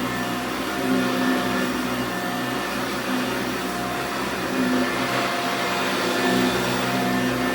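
1987 Eureka self-propelled upright vacuum cleaner running steadily, a continuous whir with a humming tone that swells and fades every second or two.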